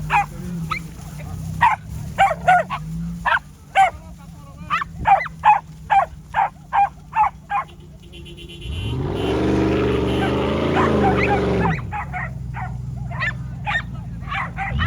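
A dog barking repeatedly, about two barks a second, for most of the first eight seconds. About nine seconds in, a vehicle engine revs up and back down for about three seconds, and a few more barks follow.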